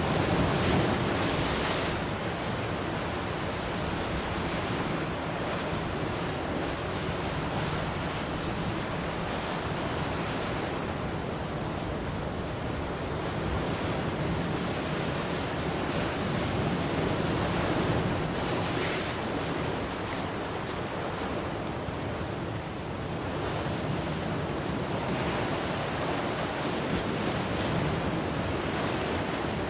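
Ocean surf: a steady wash of waves, with a few louder breakers swelling up, the strongest about a second in and others about two-thirds and five-sixths of the way through.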